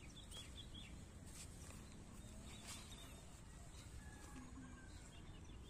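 Faint outdoor quiet with a few short, high bird chirps, most of them in the first second.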